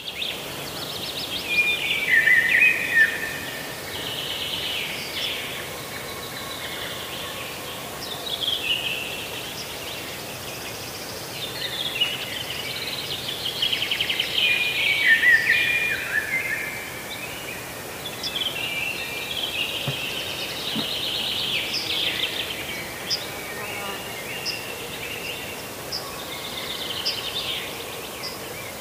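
Birds singing and calling in overlapping chirps, trills and short falling phrases, over a steady background hiss.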